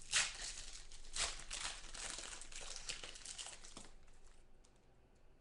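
Plastic trading-card sleeves crinkling and rustling as cards are pulled out of them, an uneven run of crackles that fades out about four seconds in.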